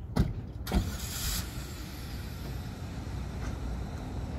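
Idling car engine with a steady low rumble, with two sharp knocks about half a second apart near the start, then a brief hiss.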